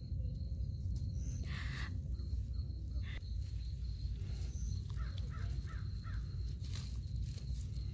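Birds calling, crow-like: one harsh call about a second and a half in, and a quick run of four short calls around five seconds in, over a steady low rumble.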